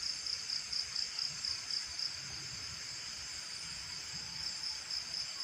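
Night insects trilling in a high, steady chorus that pulses evenly about three to four times a second, with faint low rustling underneath.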